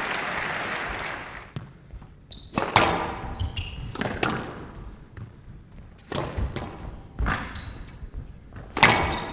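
Squash rally: the ball cracking off rackets and smacking the court walls in sharp, irregular strikes, with shoes squeaking on the court floor between them. Applause dies away in the first second.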